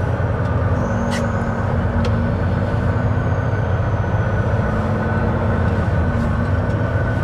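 Semi truck's diesel engine and road noise running as a steady low drone, heard from inside the cab while driving slowly.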